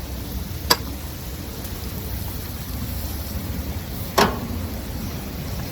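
Onion paste and spices sizzling steadily in butter in a pan, with two sharp taps, one just under a second in and a louder one about four seconds in.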